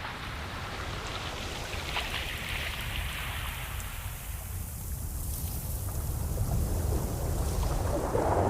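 Ocean waves washing in and breaking, a steady hiss of surf over a low rumble, with one wave swelling near the end.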